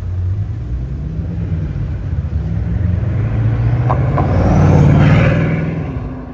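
Bugatti Chiron's quad-turbo W16 engine running at low revs as the car drives slowly past, growing louder to a peak about five seconds in, then fading as it moves away.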